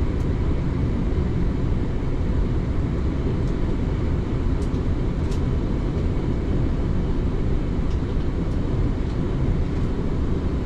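Steady low rumble of a passenger train running along the line, heard from inside the carriage, with a few faint clicks.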